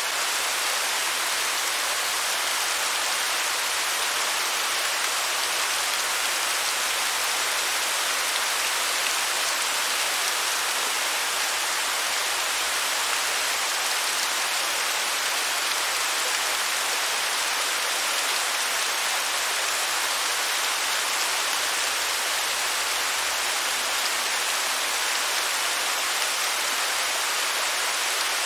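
Waterfall, water cascading and splashing in a steady, unbroken rush that is mostly hiss with hardly any low rumble.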